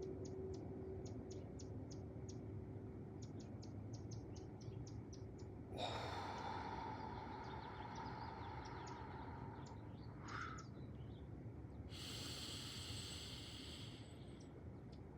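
A person breathing slowly as part of a breathing exercise: a long breath out through the mouth starting about six seconds in and lasting about four seconds, then a shorter hissing breath near the end. Birds chip rapidly through the first five seconds.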